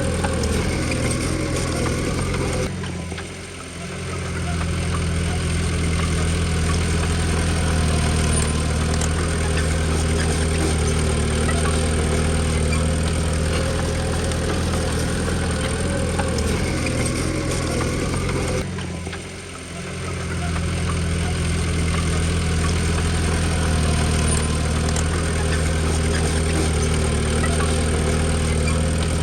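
Diesel engine of a small Komatsu D20P bulldozer running steadily. It briefly drops and then picks back up twice, about sixteen seconds apart.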